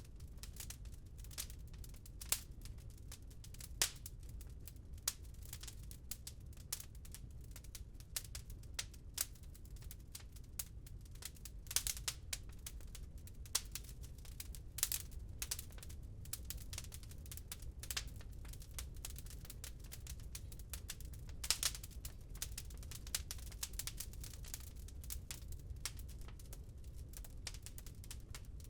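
Wood fire crackling in a fireplace: irregular sharp pops and snaps, a few louder ones scattered throughout, over a low steady rumble.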